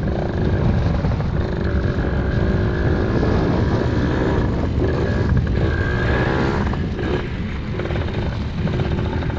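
Pit bike's small engine running steadily in first gear while underway, its pitch wavering up and down, with wind noise on the microphone.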